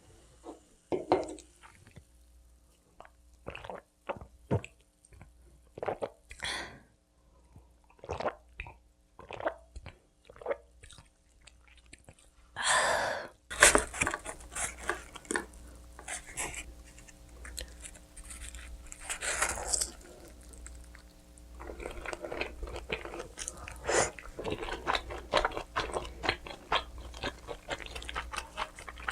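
Close-miked eating of pizza: scattered small clicks and mouth sounds at first, then about halfway through a bite leads into steady chewing with crunchy crust.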